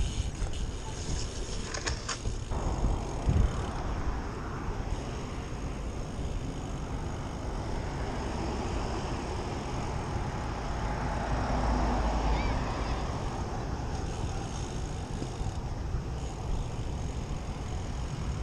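Wind buffeting the microphone with rumble from a moving bicycle, a few knocks in the first few seconds and a slight swell louder near the middle.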